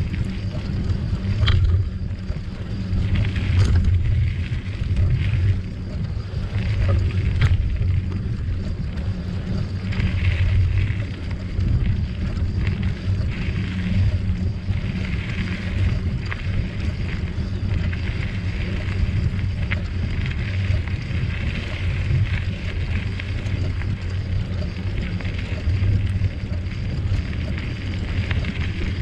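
Wind buffeting the microphone on a moving bicycle, a steady low rumble, with tyre and trail noise and a few sharp clicks and rattles from the bike.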